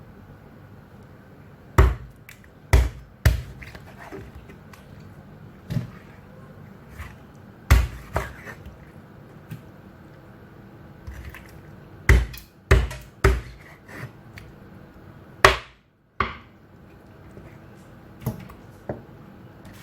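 Kitchen knife chopping raw chicken into small pieces on a cutting board: sharp, irregular chops, several in quick runs of two or three, with pauses between.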